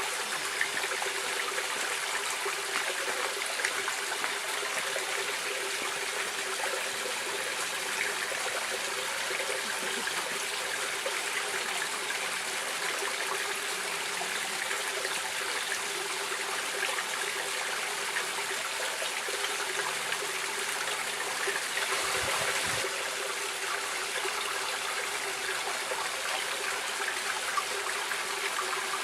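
Stream water running steadily, an even splashing trickle with no pauses. About three-quarters of the way through there is a brief low bump.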